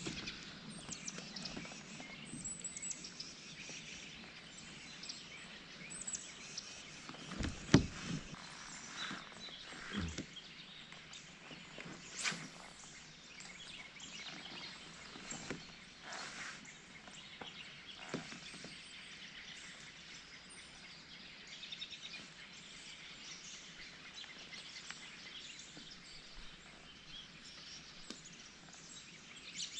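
Outdoor river ambience: a steady background hiss with faint bird calls and scattered small ticks, broken by a few sharp knocks, the loudest about eight seconds in.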